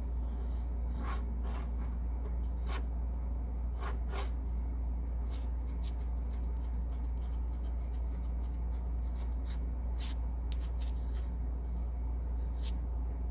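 Watercolor brush and painting tools working on paper and palette: scattered small clicks, taps and light rubbing, over a steady low hum.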